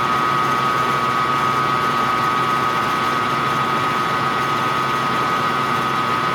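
Small metal lathe running steadily while drilling, its motor and drive giving a constant high whine over a low hum.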